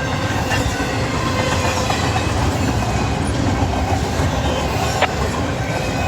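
CSX intermodal freight train's cars rolling past: a steady wheel-on-rail rumble, with one sharp click about five seconds in.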